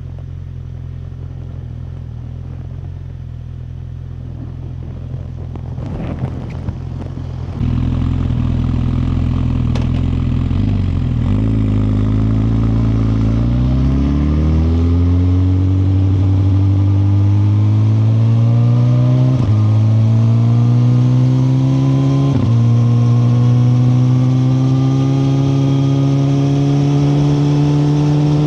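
2021 Suzuki GSX-R1000R's inline-four running steadily at low revs, then pulling away and accelerating, its pitch climbing. Two quick upshifts come in the second half, each a short break before the engine climbs again.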